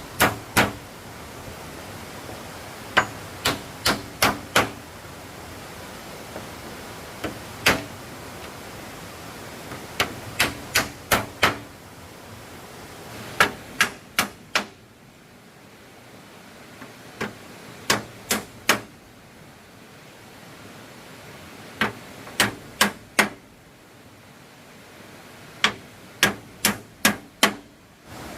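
Hammer blows on wood in quick groups of three to five strikes, with pauses of a second or more between groups.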